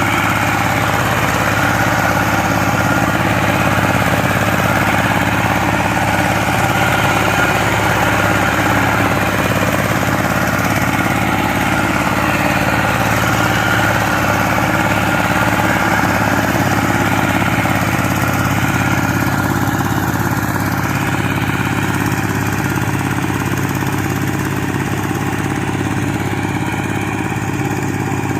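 Power tiller engine running steadily at a constant speed.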